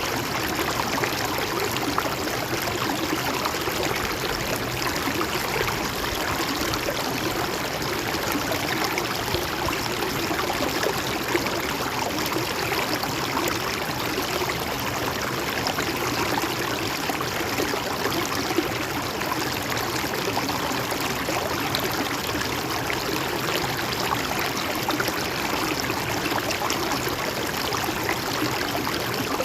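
A river or stream flowing and babbling steadily over rocks, an even rushing with small splashes and gurgles throughout.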